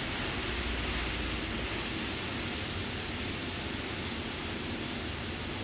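Model train, an ED79 electric locomotive model hauling passenger cars, running along layout track: a steady rolling whir of wheels on rail.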